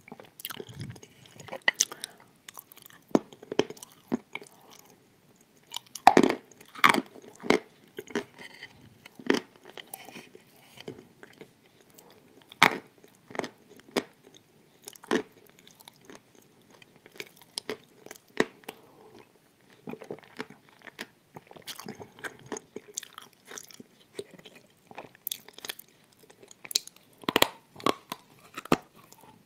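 Close-miked chewing of hard, crunchy pale bars: irregular sharp crunches between quieter chewing, with a burst of louder bites near the end.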